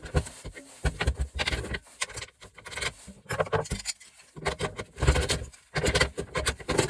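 Metal parts of a gas stove clinking, knocking and scraping as they are handled and pulled apart, in irregular clusters of sharp clicks.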